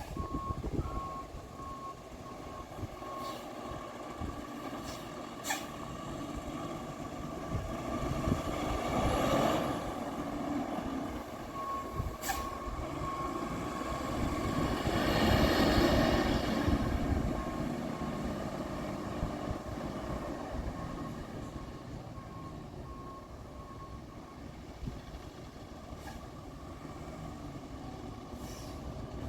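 Freightliner 108SD RotoPac garbage truck's diesel engine running, with its reverse alarm beeping at a steady rate, first in the opening seconds and again from about 11 to 22 seconds in. Two swells of rushing noise rise and fall around 9 and 16 seconds in, the second the loudest.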